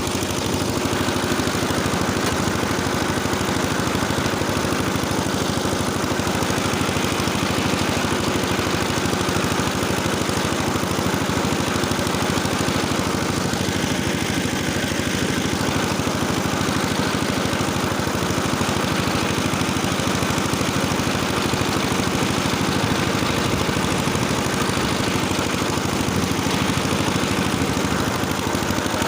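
Engine of a rotary-tilling machine running steadily under load as the tiller works the soil.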